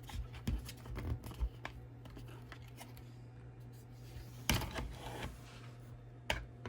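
Faint clicks and scratching of 3D-printed plastic parts being handled and fitted, with a louder scrape about four and a half seconds in and a sharp click near the end.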